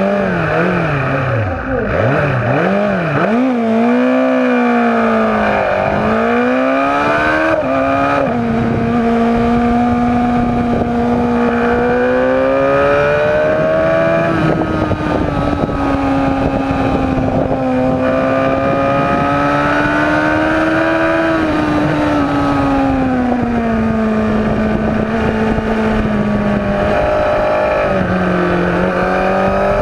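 Superbike engine at full race pace, revs climbing and dropping sharply several times in the first few seconds as it shifts gear, then holding high with slower rises and dips through the bends.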